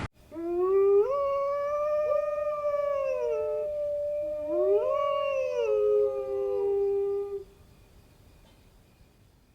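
Canines howling: long, smooth howls from at least two animals, overlapping. The first rises and holds, and a second rising howl starts about halfway through. The howling ends a couple of seconds before the end.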